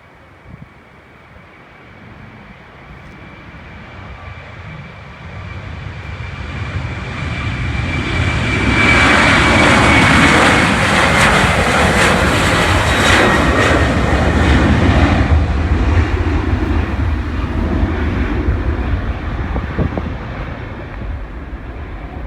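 Jet airliner's engines at takeoff power, swelling as it passes with a high whine that drops slightly in pitch, then trailing off into a low rumble.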